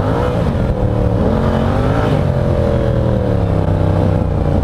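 Motorcycle engine pulling hard at high revs on dirt, its pitch rising a little twice early on and then slowly easing off.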